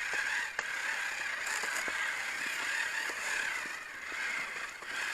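Small electric drive of a toy RC tracked vehicle running with a steady whine, with scattered light clicks from its plastic tracks and gears.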